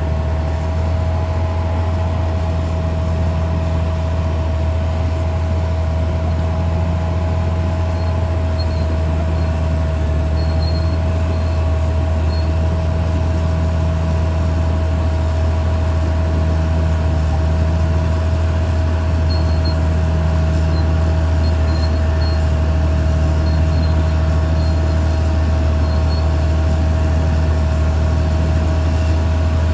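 Caterpillar D6R XL bulldozer's diesel engine running steadily under work, a deep drone with a constant whine over it.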